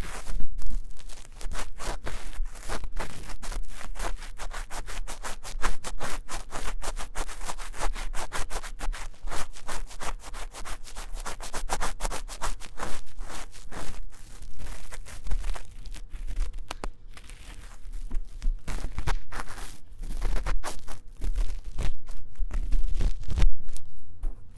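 Ear-cleaning tool scratching and rubbing fast and vigorously inside the ear of a 3Dio binaural microphone, in rapid scraping strokes several to the second, with a brief lull a little past the middle.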